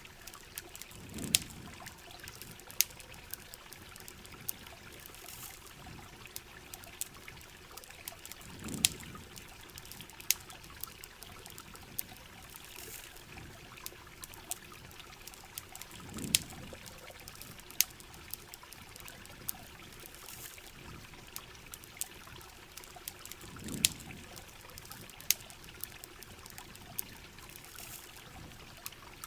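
Steady rain and running water mixed with the sharp, irregular pops and crackles of a campfire. A low, dull thump comes about every seven and a half seconds.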